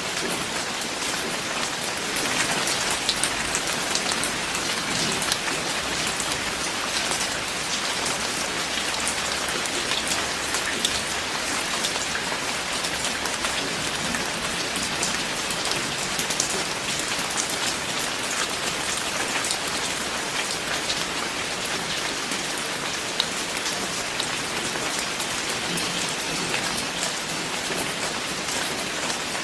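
Steady heavy rain falling, with a dense hiss and many individual drops ticking on a surface.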